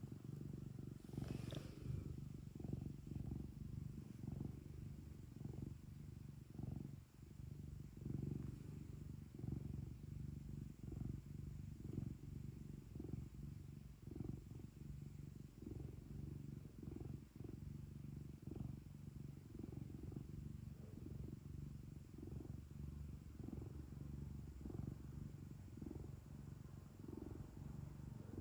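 Domestic cat purring steadily, a low rumble that swells and eases in an even rhythm with its breathing.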